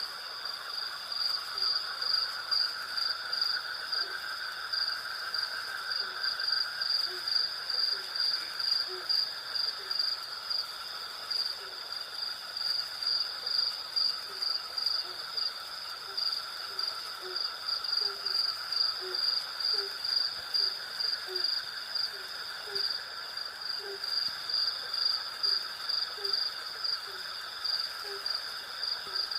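Night insect chorus of crickets: a steady high chirring that pulses about twice a second, over a lower steady buzz of other insects. From a few seconds in, a series of short low notes repeats a little faster than once a second.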